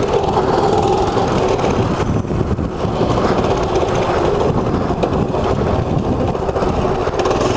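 Small mini bike engine running steadily as the bike is ridden.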